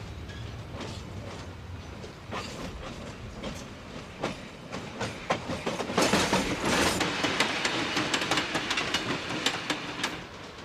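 Passenger train rolling past close by, a steady rumble with its wheels clicking over the rail joints. The clicks come thicker and louder about halfway through, then stop shortly before the end.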